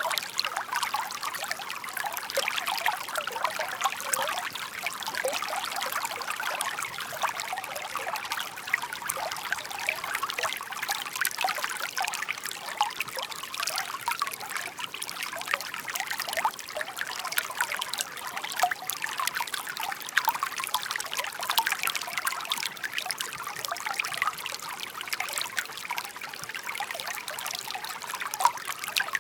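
Shallow babbling brook of a park water channel: water trickling and splashing over stones, steady and continuous with lots of small bright splashes.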